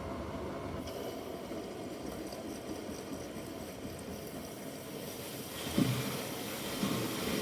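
Bosch front-loading washing machine running a quick wash, the drum turning with water sloshing. In the last two seconds a hiss rises and two soft low thumps follow, about a second apart, as the pillow tumbles in the drum.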